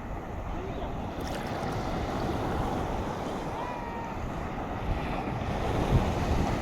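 Storm wind buffeting the phone's microphone over the steady wash of sea surf, with a few stronger gusts near the end.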